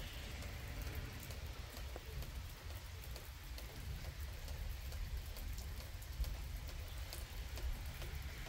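Light rain before a thunderstorm: scattered raindrops ticking on a nearby surface, over a steady low rumble.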